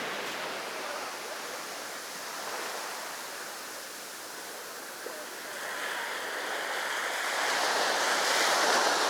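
Sea surf washing on a beach: the wash dies down to a low hiss around the middle, then swells again as the next wave comes in.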